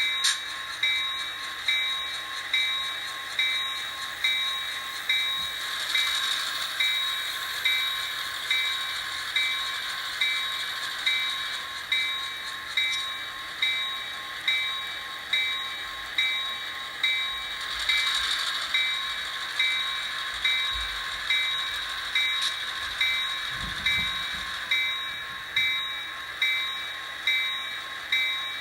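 HO scale model locomotive's DCC sound decoder ringing the locomotive bell through the model's small speaker, a steady clang about once a second.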